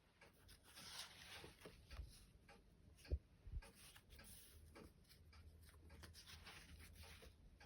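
Faint rustling of paper as the pages of a thin children's book are turned and handled, with two soft low bumps about three seconds in.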